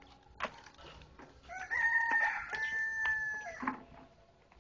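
A bird's long call, rising at first, then held on one pitch with a brief break in the middle and dropping away at the end. A sharp click sounds about half a second in.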